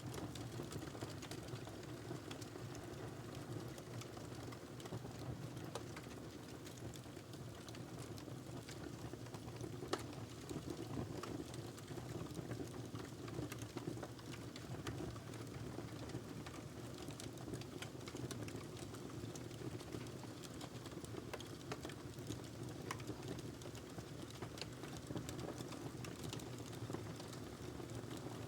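Wood fire crackling in a fireplace: a steady low rumble of flames with frequent small pops and snaps, and one sharper pop about a third of the way through.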